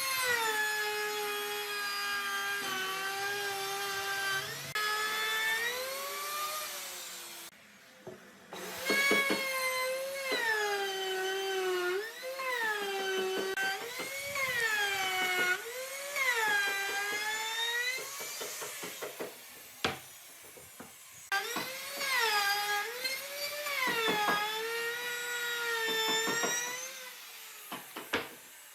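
An electric power tool's motor whining as it works wood, its pitch repeatedly sagging and recovering as it is pressed into the cut and eased off. It stops briefly twice.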